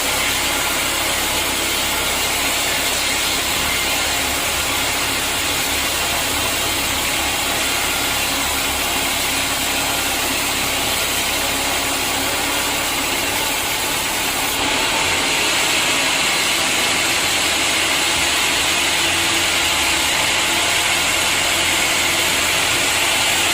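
Sawmill machinery running steadily with a constant mechanical din. About fifteen seconds in, the sound turns hissier and a little louder.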